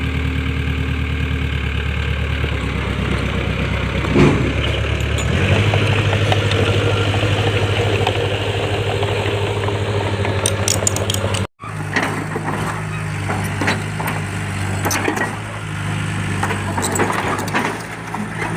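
Heavy diesel engine running steadily, then rising in pitch about five seconds in as it takes more throttle. The sound cuts out for an instant near the middle, and the engine then runs on under scattered clanks and knocks.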